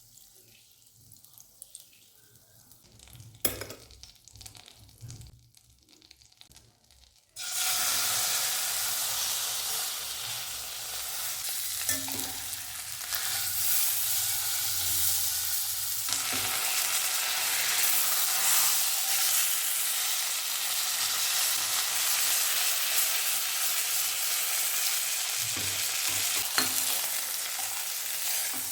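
Food frying in a pan: after a quiet start with a single knock, a loud sizzle starts suddenly about seven seconds in and keeps going steadily, with a few light clinks.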